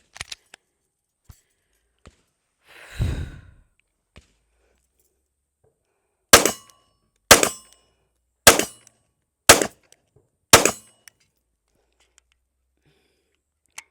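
Heckler & Koch CC9 9mm pistol fired five times, about one shot a second, each a sharp crack with a short ring-out. Before the shots come a few small handling clicks and a brief whoosh.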